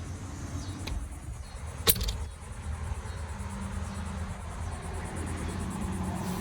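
Steady low rumble of outdoor background noise, with a sharp knock about two seconds in and a low steady hum joining from about halfway.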